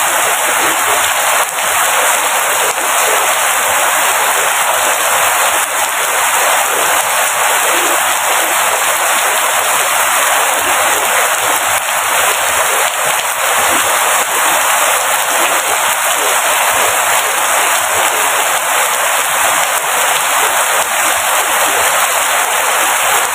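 Steady rain falling, a dense even hiss of countless drops that keeps on without let-up.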